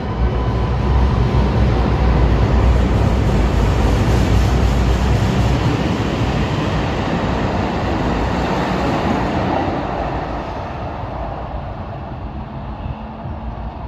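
U79 Stadtbahn light-rail train pulling away: a loud rumble of motors and wheels on rail that is strongest in the first few seconds, then slowly fades as the train leaves.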